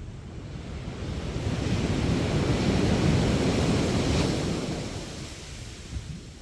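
A sea wave breaking on a sandy beach: the surf noise swells over a couple of seconds, peaks with a brief hiss about four seconds in, then washes away and fades.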